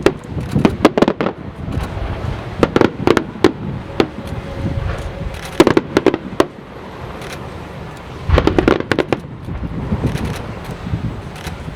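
Aerial fireworks shells bursting in four quick clusters of sharp bangs, with a low rumble between the volleys.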